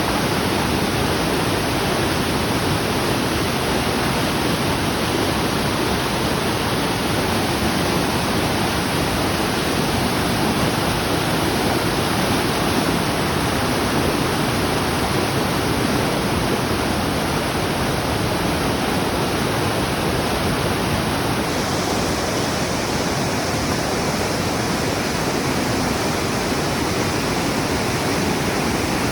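Mountain stream swollen with floodwater after about 140 mm of overnight typhoon rain, rushing with a steady roar. The high hiss changes slightly about twenty seconds in.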